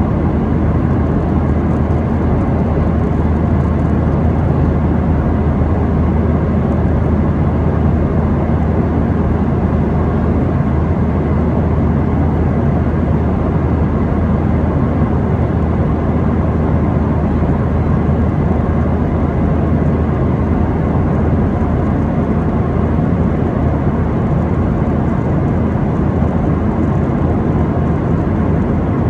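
Steady cabin noise of a Boeing 737-800 airliner: engine drone and airflow rush heard from inside the passenger cabin, with a constant low hum and no change in level.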